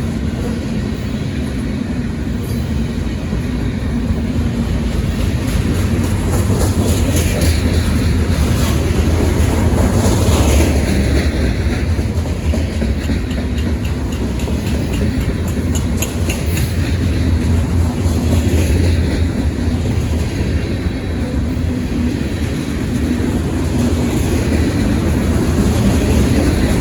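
Long freight train of mixed manifest cars rolling past, a steady rumble with wheels clacking over the rail joints.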